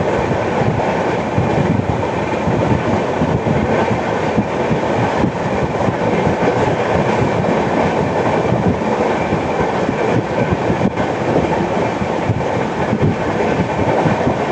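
An Indian Railways express passenger train running at speed, heard from on board: steady wheel and track rumble with the clatter of wheels over rail joints.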